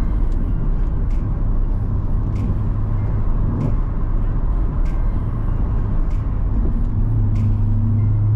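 Chevrolet C7 Corvette's 6.2-litre V8 running steadily at a cruise, with tyre and road noise, heard from inside the cabin; the engine pitch briefly rises about three and a half seconds in.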